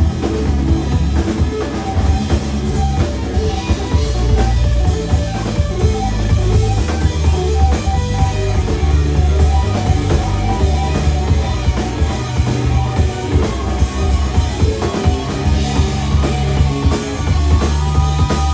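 Rock band playing live: electric guitar over a drum kit and bass, loud and continuous.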